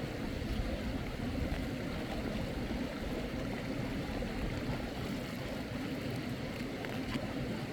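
Steady rush of flowing stream water, heaviest in the low range, with a few faint ticks.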